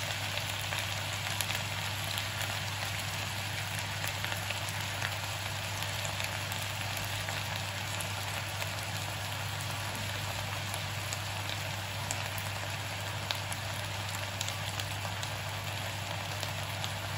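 Chopped wood blewit mushrooms and onion frying in a pan on high heat: a steady sizzle with scattered small pops as their juices boil off. A steady low hum runs underneath.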